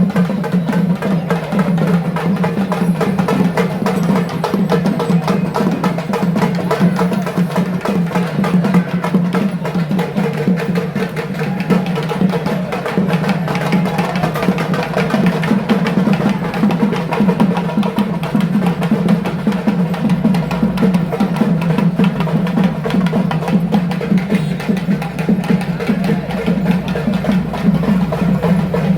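Fast, continuous ritual drumming with sharp clacking percussion over a steady low drone.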